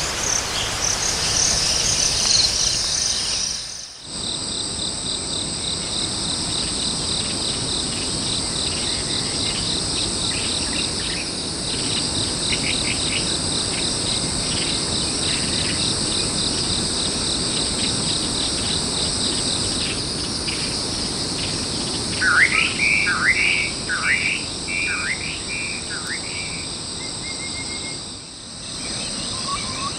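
A steady, high insect chorus throughout. Over it, a bird gives a quick series of loud, short calls that sweep downward, about three-quarters of the way through. Brief breaks near the start and near the end.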